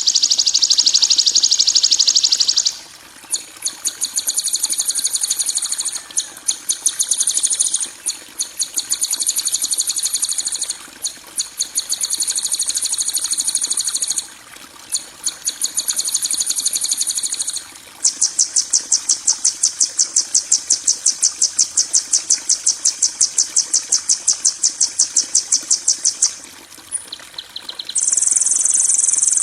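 Masteran recording of harsh, high-pitched rapid trills used to train songbirds: fast pulsed trilling phrases of a few seconds each, broken by short pauses, with one long unbroken trill of about eight seconds in the second half.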